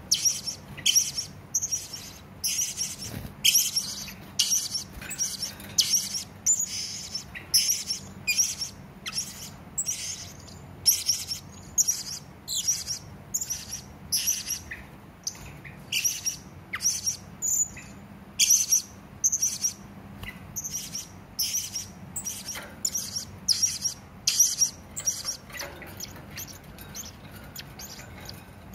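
Hanging parrot (serindit) giving a long run of short, sharp, high-pitched calls, about one to two a second, which break off a few seconds before the end.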